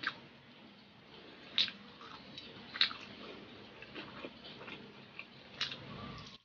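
Close-miked eating sounds: chewing with sharp, wet mouth clicks, four standing out, the loudest about a second and a half and three seconds in, then biting into chicken asado meat on the drumstick near the end. The sound cuts off suddenly at the end.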